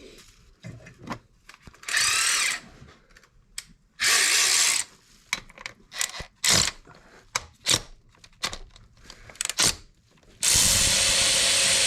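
A cordless power tool runs in three bursts, a short one about two seconds in, another about four seconds in and a longer one near the end. It is spinning out the hold-down bolt of a bad ignition coil pack. Clicks and small knocks of tools and parts come between the bursts.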